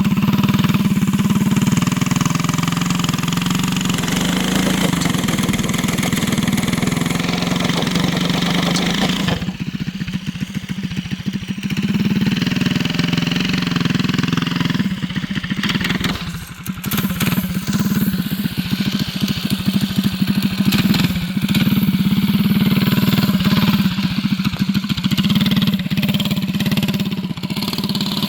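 Mini bike's small engine running hard at high revs, easing off briefly about ten seconds in and again around sixteen seconds before picking back up.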